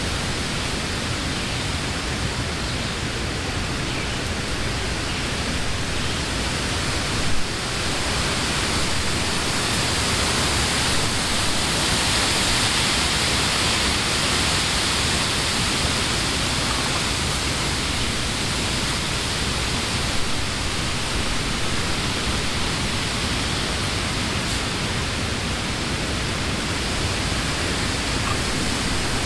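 Wind blowing through leafy trees: a steady rushing of leaves that swells in a stronger gust around ten to fifteen seconds in, with a brief thump about seven seconds in.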